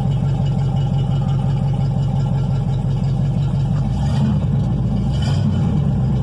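Ford 292 Y-block V8, freshly re-timed, idling steadily, then blipped briefly twice near the end.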